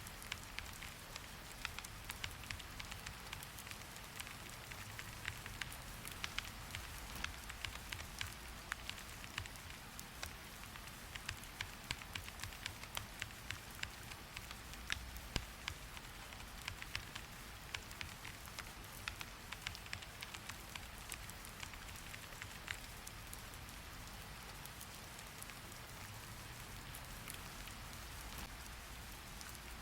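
Steady rain hiss with irregular sharp clicks, densest through the middle and thinning near the end.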